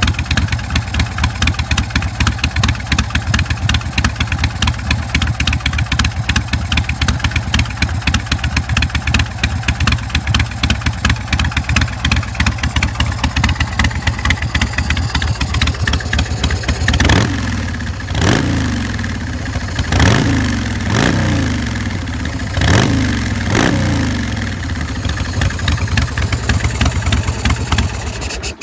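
Carbureted 117 cubic inch S&S V-twin motorcycle engine, through a Vance & Hines Big Radius exhaust, idling steadily. About two-thirds of the way in, the throttle is blipped about six times, each rev rising and dropping back. The sound cuts off suddenly at the end.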